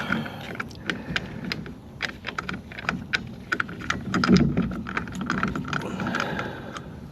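Irregular metallic clicking and tapping of lug bolts being handled and tried in a wheel hub, over a low steady hum.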